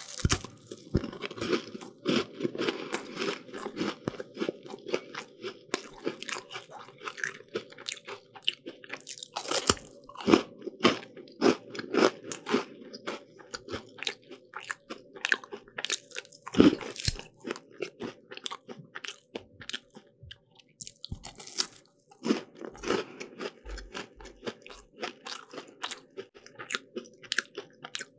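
A person biting into and chewing pastry close to the microphone: a steady stream of crisp, crackly crunches. Louder bites come every few seconds.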